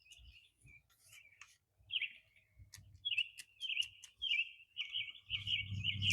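Small songbirds chirping and singing in quick warbling phrases that grow busier after a few seconds, with brief sharp ticks mixed in and a short low rumble near the end.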